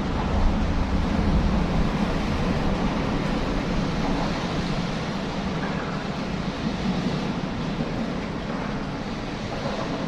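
Wind blowing on the microphone ahead of a storm, a steady rushing with low rumbling buffets, strongest in the first two seconds.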